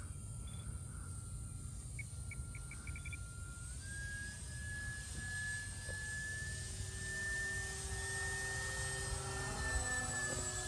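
Radio-controlled Cessna 182 model plane's electric motor and propeller whining steadily in flight, the pitch stepping up about four seconds in as the throttle is opened.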